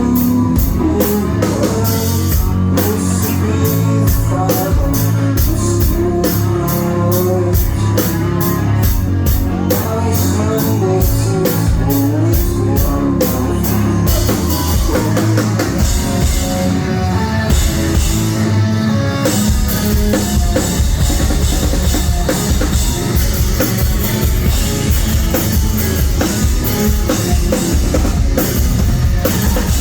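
Live rock band playing loud, with a driving drum kit, guitars and bass, recorded on a phone in the crowd. The drumming shifts from steady, evenly spaced hits to a denser, fuller section about halfway through.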